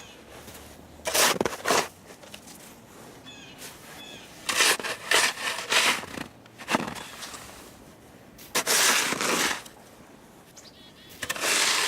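Snow shovel scraping and scooping snow in several separate strokes, each a burst of gritty scraping.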